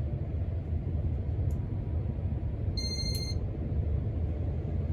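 One short high beep from a Casablanca IntelliTouch ceiling fan control about three seconds in, the control acknowledging a step up to the next fan speed. Under it is the steady low hum of the 1987 Casablanca Zephyr ceiling fan running.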